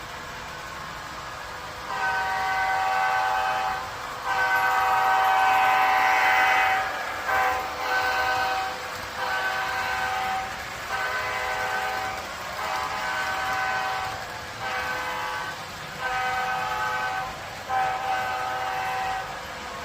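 Train horn sounding a long series of blasts: two long ones, then about eight shorter ones, each a chord of steady tones.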